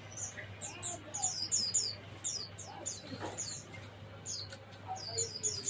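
Small songbirds chirping: bouts of quick, high, downward-sliding chirps, three or four a second, with a pause in the middle. A faint steady low hum runs underneath.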